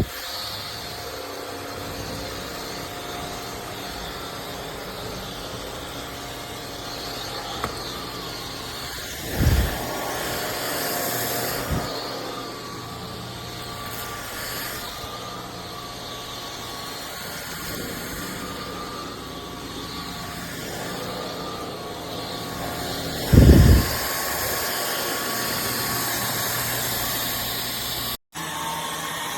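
Cordless stick vacuum running steadily, a constant motor whine and airflow rush, with two dull low thuds, one about a third of the way in and one near the end.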